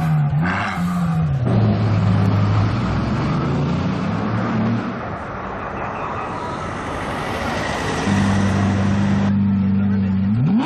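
Supercar engine idling low and steady in street traffic, with a short up-and-down throttle blip in the first second.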